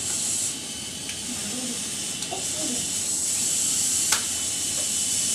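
Small electric motor of a PicoCricket model crane whirring steadily as the crane turns and lifts its load, getting a little louder partway through, with a single click about four seconds in.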